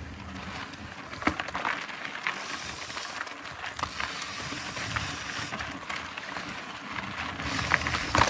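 Mountain bike riding along a dirt trail: tyres rolling on the ground, with the chain and frame rattling and scattered clicks and knocks over bumps, the sharpest about a second in and near the end.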